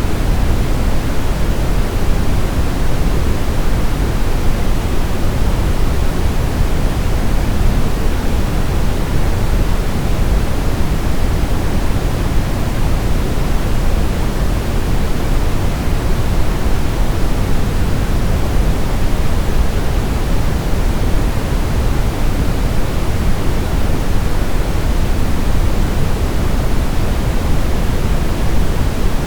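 Synthetic brown noise: a steady, even hiss weighted heavily toward the low end, with no changes or events.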